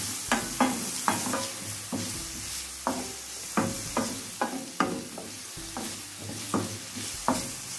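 Strips of red bell pepper sizzling in olive oil in a stainless steel frying pan, with a wooden spoon stirring and scraping against the pan in quick, irregular strokes.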